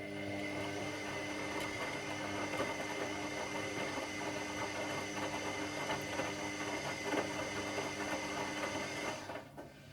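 Washing machine motor turning the drum through one stretch of the wash cycle: a steady whine of several tones over a noisy rush, stopping about nine seconds in.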